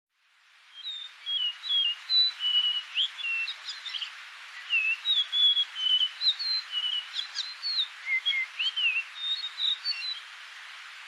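A songbird singing a quick, varied run of short whistled notes and chirps over a steady background hiss. The song stops about ten seconds in.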